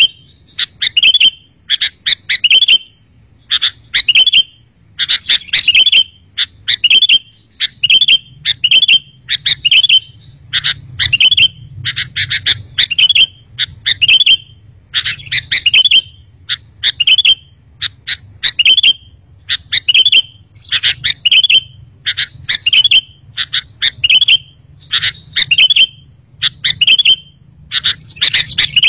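Sooty-headed bulbul calling over and over: short, sharp chattering phrases about once or twice a second, with a faint low hum underneath.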